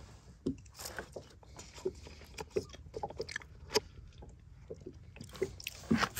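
A person chewing and eating baked beans spooned from a foil pouch: soft, irregular mouth sounds with scattered small clicks and rustles of the spoon and pouch.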